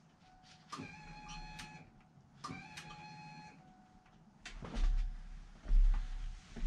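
Two drawn-out squeaks, each about a second long, followed by two heavy thumps near the end.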